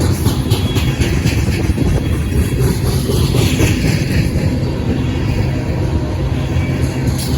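Train rumbling steadily, a heavy low rumble with faint rattle above it.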